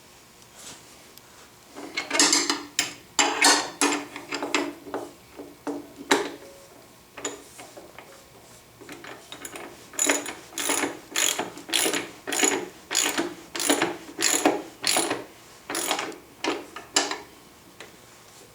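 Socket ratchet wrench tightening a bolt, its pawl clicking in short rapid runs, one per stroke. Two spells of ratcheting, a brief one and then, after a pause, a steady run of strokes nearly two a second.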